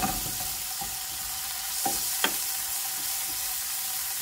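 Chopped onion and spice masala frying in oil in a non-stick pan: a steady sizzle, with the spoon scraping through it and knocking lightly against the pan a few times as it is stirred.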